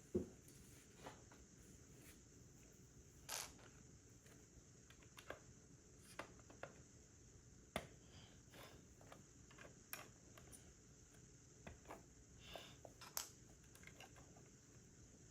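Plastic Lego bricks being handled and pressed together: scattered sharp clicks at irregular intervals over a faint hiss, the loudest about at the start.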